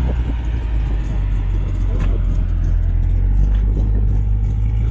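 A motor vehicle's engine idling close by: a steady, loud low rumble that holds even throughout.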